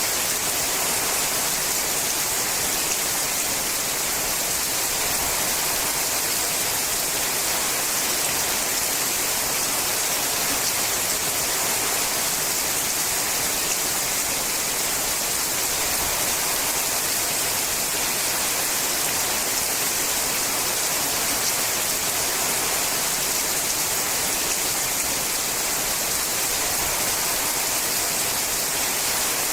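Steady rain drumming on a sheet-metal roof: a dense, even hiss of drops with fine scattered ticks, unchanging throughout.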